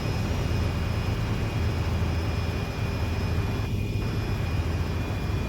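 Tour helicopter in flight: a steady low drone of engine and rotor.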